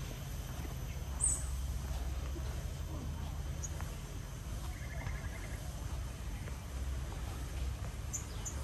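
Garden ambience: a low steady rumble with a few faint, brief, high bird chirps and a short rapid trill about five seconds in.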